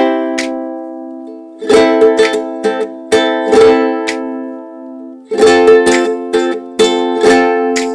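Background music: a ukulele strumming and plucking bright chords in phrases, each strum ringing out and fading.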